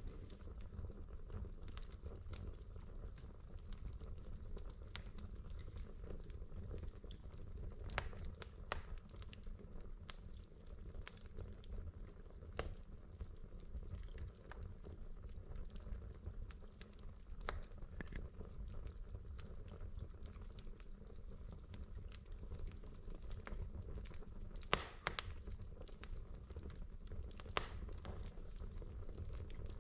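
Wood fire in a fireplace burning steadily with a low rumble, crackling, and scattered sharp pops from the logs, the loudest near the end.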